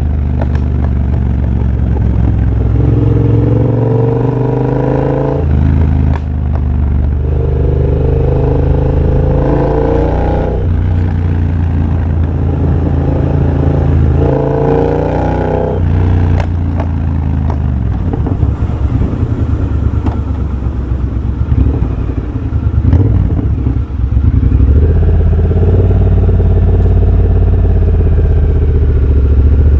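2023 Triumph Bobber's 1200 cc parallel-twin engine through a de-catted X-pipe and Motone Shorty exhaust, accelerating in three rising spells with short breaks between them. It then runs choppy and uneven on a closed throttle for several seconds before settling back to steady running near the end.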